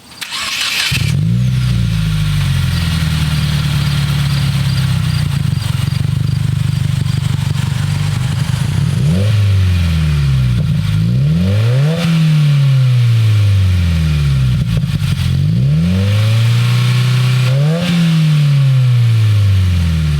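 2015 Subaru WRX turbocharged flat-four engine breathing through an Invidia N1 dual catback exhaust: it cranks and catches in the first second, runs steadily, then from about halfway in is revved up and let fall back in pitch several times, a deep exhaust note.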